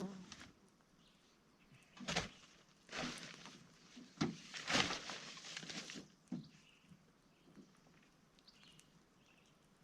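Rustling and a few sharp knocks from about two to six seconds in, as tent fabric and straps are handled; quieter, with only faint small sounds, after that.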